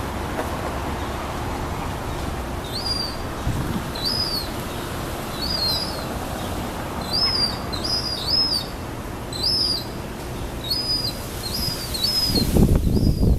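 Young gulls' begging calls: short, high, arching peeps, about one or two a second and often in pairs, over a steady rush of background noise.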